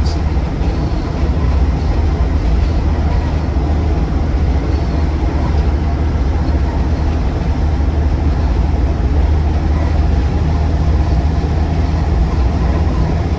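Land Rover Defender 90 TD5 driving at a steady speed, heard from inside the cabin: the five-cylinder turbodiesel drones steadily under a haze of road and tyre noise.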